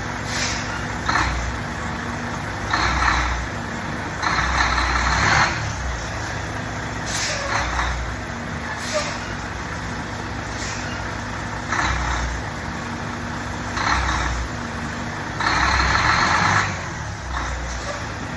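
Volvo truck running, with about ten short bursts of air hiss, each with a surge of low rumble, the longest near the end.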